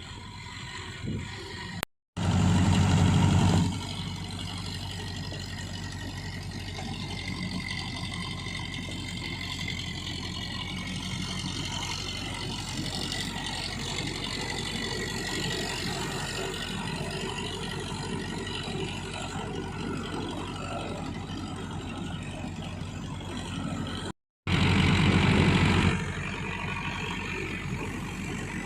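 Digitrac PP51i 60 hp tractor's engine running steadily. About two seconds in, and again near the end, the sound cuts out briefly and comes back louder and deeper for a second or two.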